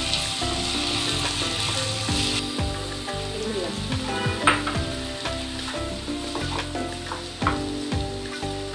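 Freshly added chopped tomatoes sizzling in hot groundnut oil with fried onions and masala in a non-stick pan while a wooden spatula stirs and scrapes them. The sizzle is loudest for the first couple of seconds, and the spatula knocks sharply against the pan a few times, loudest about four and a half seconds in.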